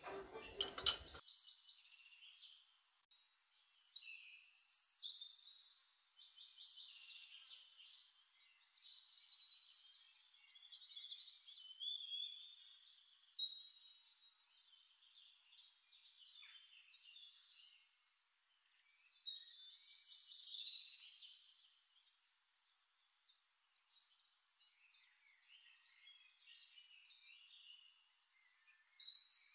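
Faint bird chirping and twittering in scattered clusters of quick, high calls, with no low sound at all.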